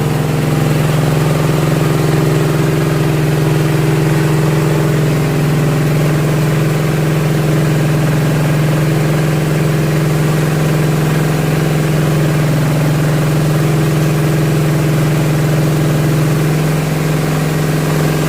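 SM30 multifunction grinding mill running steadily, a constant-pitch mechanical hum with no change in speed.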